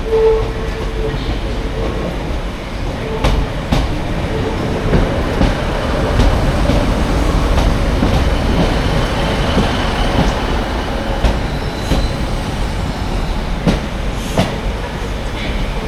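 Passenger train running at the station: a steady low rumble with a few sharp clicks, typical of wheels going over rail joints.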